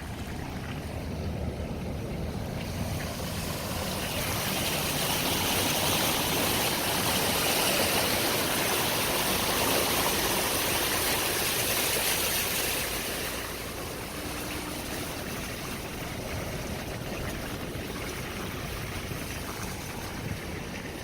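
Rushing floodwater, a steady hiss that swells louder for several seconds in the middle and then eases, over the low rumble of a vehicle.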